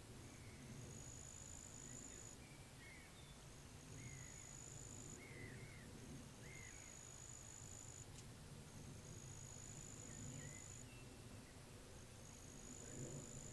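Faint pond-side ambience: an insect's thin, high trill repeating in bouts of about a second and a half, with a few soft bird chirps and a low steady wind rumble underneath.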